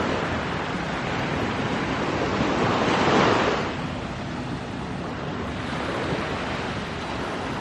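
Sea waves washing onto the beach, with one louder surge about three seconds in, and wind buffeting the microphone.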